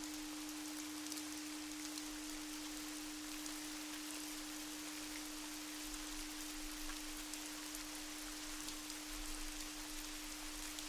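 Steady patter of rain, with a single low drone tone held unchanged underneath it.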